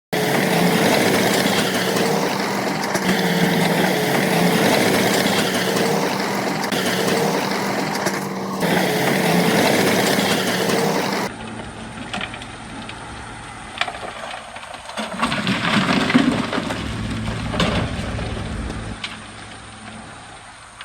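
Heavy earthmoving machinery running: a loud diesel engine with a steady, slightly wavering drone, then, after an abrupt cut about eleven seconds in, quieter machinery rumble with scattered clanks.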